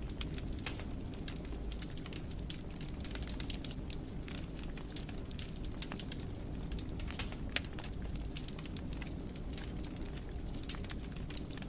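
Wood fire burning in a fireplace: a steady low rumble of flames with frequent irregular crackles and pops, one sharper pop about two-thirds of the way through.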